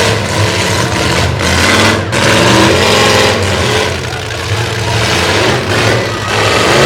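Race truck engines revving at full throttle, their pitch rising and falling again and again.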